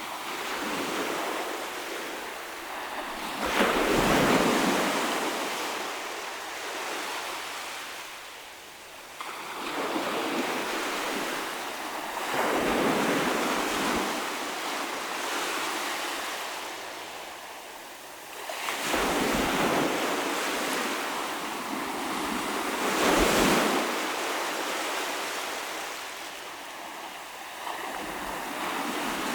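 Ocean waves breaking on the shore, the wash swelling and receding in surges every few seconds, with some wind on the microphone.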